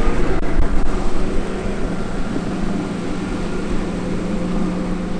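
A boat's engine running steadily at an even pitch.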